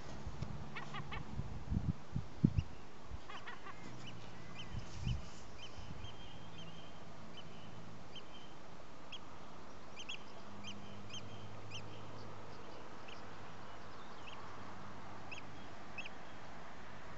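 Birds calling: short, sharp calls repeating every second or two over a steady background of wind and water. A few low thumps come in the first few seconds.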